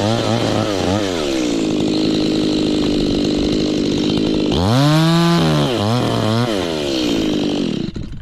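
Two-stroke chainsaw blipped through quick revs, then held at steady high speed for a few seconds, revved again about halfway through and held again, before dropping away near the end.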